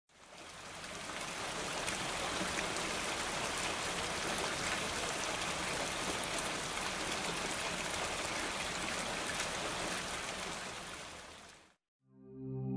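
Steady rain, fading in over the first couple of seconds and fading out near the end. Soft music with long held notes begins just before the end.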